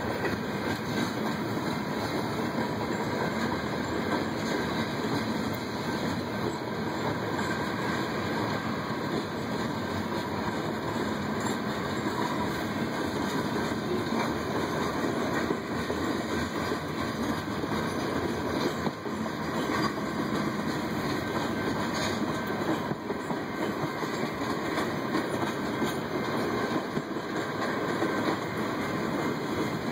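Freight train cars, covered hoppers and then tank cars, rolling steadily past at a level crossing: continuous, even noise of steel wheels on the rails with some clickety-clack.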